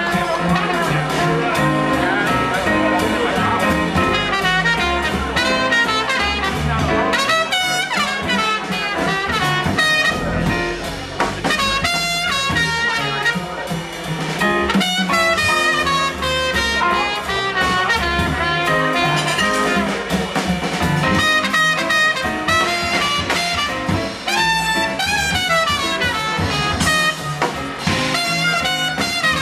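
Live jazz quintet playing a mid-tune passage: horn lines with fast runs over piano, acoustic bass and drums.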